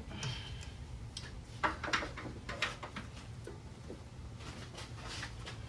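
Scattered light clicks and scrapes of a hand pick and tools working loose a 1986 Nissan 300ZX's original rubber upper radiator hose, which is stuck fast to its fitting after many years.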